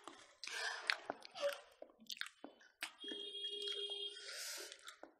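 Close-miked wet chewing and squishing of people eating smoked pork and rice by hand, with scattered sharp clicks. About three seconds in, a steady high-pitched sound holds for about a second and a half.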